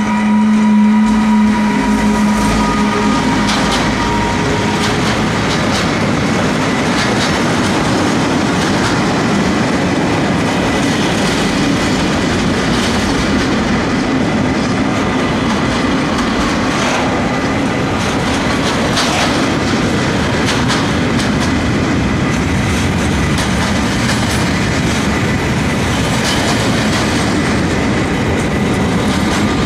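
Mixed freight train passing at speed behind a class 189 electric locomotive. A steady hum is heard in the first few seconds as the locomotive goes by. After that there is a continuous rumble of freight wagons, with wheels clicking over the rail joints.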